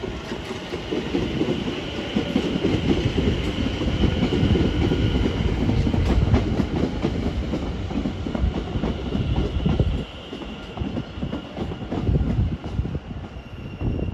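London Overground Class 710 electric multiple unit running through on the rails, its wheels rumbling, with a faint steady high whine above the noise. The sound builds over the first couple of seconds and falls away about ten seconds in.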